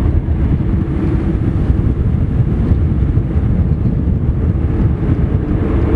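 Avro Lancaster's four Rolls-Royce Merlin V12 engines running together: a loud, steady, low drone.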